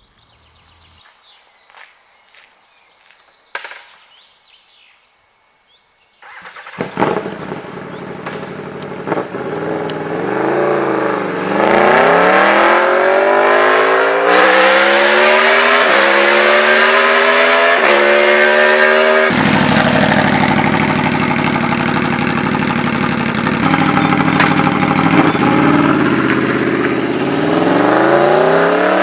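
Aprilia RSV4/Tuono V4 motorcycle engine. After about six seconds of faint clicks the engine cuts in suddenly and accelerates hard through several gears, the note climbing and dropping back at each upshift, then holds high and steady before climbing again near the end.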